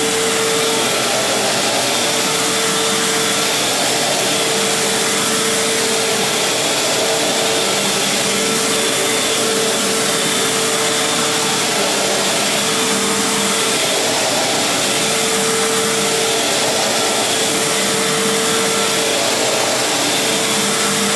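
Fantom Crosswind 200XL bagless cyclonic upright vacuum cleaner running steadily, a constant rush of air with a steady hum.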